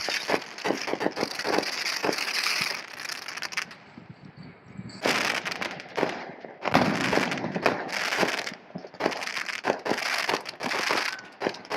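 Fireworks crackling and popping in rapid, dense strings of small bangs, easing off briefly about four seconds in, then picking up again.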